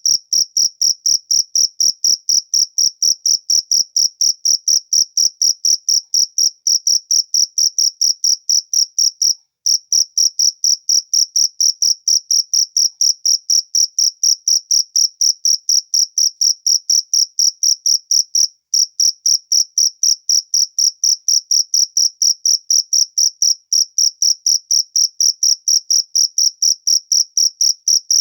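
A cricket chirping: a high, pure-pitched chirp repeated at a fast, even rhythm, with a brief break about nine and nineteen seconds in.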